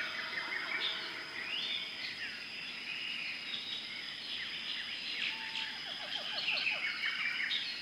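Tropical rainforest ambience: many birds chirping and whistling over a steady, high insect drone, with a quick run of lower notes a little past halfway.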